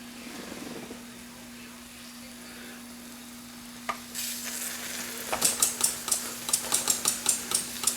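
Steam and hot water hissing and sputtering from a leaking valve on the boiler of an Empire B43 toy live steam engine, building up about four seconds in into a sizzle with rapid crackling spits.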